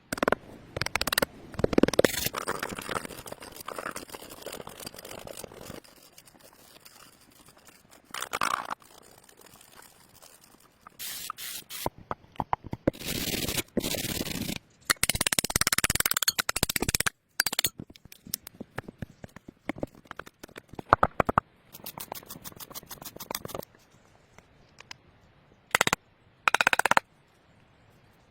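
Irregular scraping and knocking from hand work: several noisy scrapes of a second or two each, with runs of quick sharp clicks in between and short quiet gaps.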